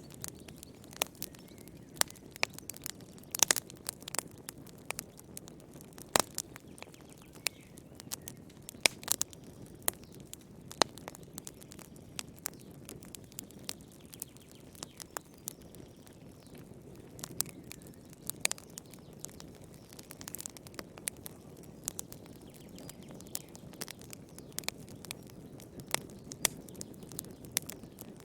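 Wood fire crackling in a fireplace: irregular sharp pops and snaps, several a second, over a steady low rush of burning.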